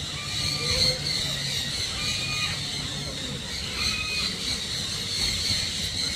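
A bird giving a short, flat, squealing call three times, about two seconds apart, over a steady high buzz.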